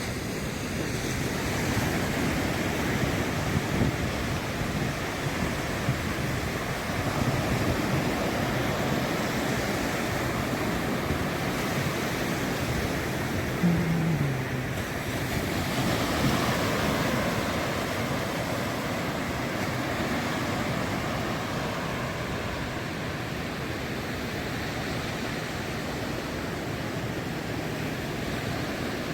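Ocean surf breaking and washing up the beach in a steady rush. It swells about two seconds in and again a little past halfway, with a brief low falling sound just before the second swell.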